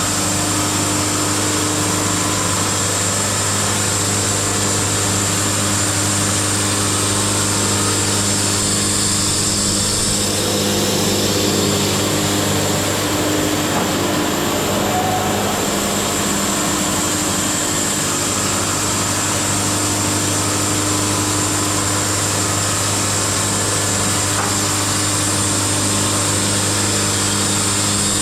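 Wood-Mizer LT70 band sawmill running steadily while sawing a maple log: a low hum with a steady high whine over it. The high whine fades for a few seconds near the middle, then comes back.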